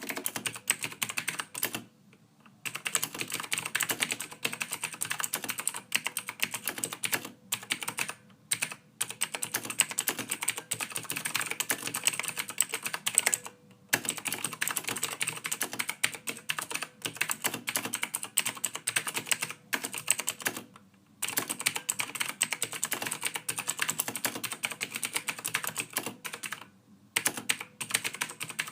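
Typing on a computer keyboard: fast runs of key clicks in bursts of several seconds, broken now and then by brief pauses.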